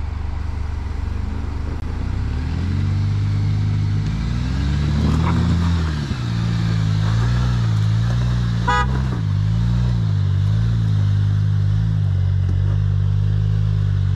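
Jeep Wrangler engine running under load on a rough trail, its pitch rising about two seconds in and shifting up and down with the throttle. A short rattling click comes about nine seconds in.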